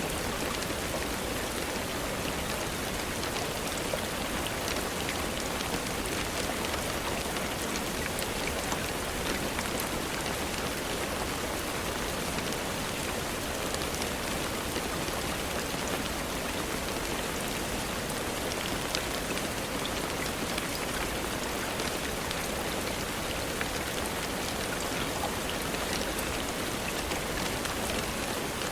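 Steady, even rainfall with a dense patter of small drop ticks.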